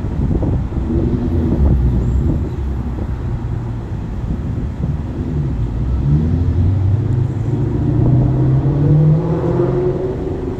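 A vehicle engine running, its pitch climbing steadily over the last few seconds as it speeds up.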